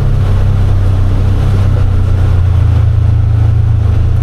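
Side-by-side UTV engine running steadily with a loud low hum, its pitch dipping slightly about two and a half seconds in.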